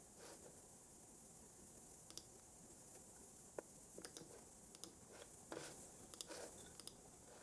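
Scattered, irregular clicks from a computer keyboard and mouse, a few in quick pairs, over a faint steady hiss.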